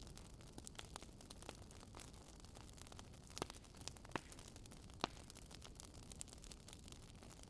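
Campfire crackling: frequent small snaps over a faint hiss, with louder pops about three and a half, four and five seconds in.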